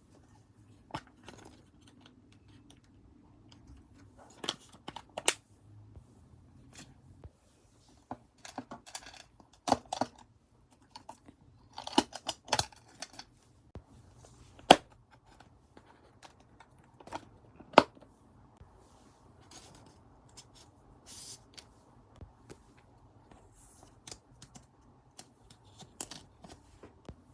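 Photocard packing by hand: scattered crinkles of plastic sleeves and paper with sharp clicks and snips, the loudest snaps about halfway through and again a few seconds later.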